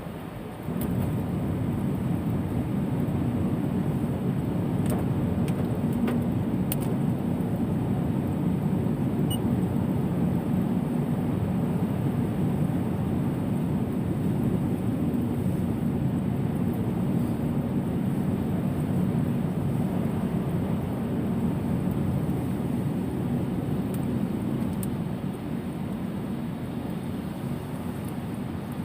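Steady rumble of vehicle tyres and road noise on a rain-soaked road, with no pitched engine tone standing out.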